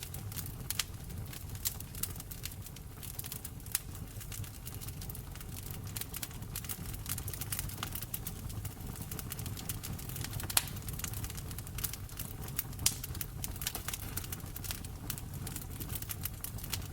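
Wood fire crackling in a fireplace: irregular snaps and pops, a few of them louder, over a steady low rumble of the flames.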